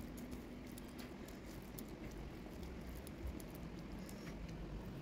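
Chewing close to the microphone: a run of small, sharp, wet mouth clicks over a low background hum.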